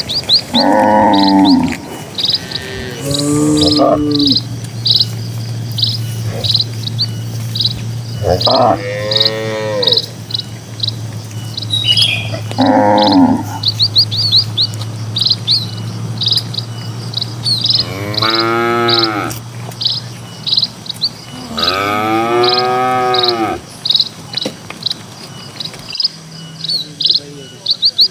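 Small birds chirping in a rapid, regular series throughout, with cattle mooing about six times, the last two calls long and drawn out. A low steady hum lies under much of it.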